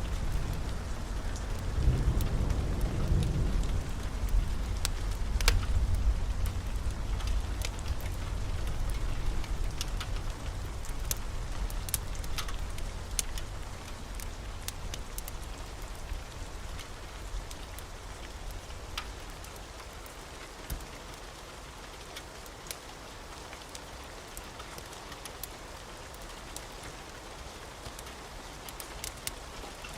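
Steady rain with a low rolling rumble of thunder that is loudest in the first several seconds and dies away over the next ten or so. Scattered sharp pops and crackles sound over the rain throughout.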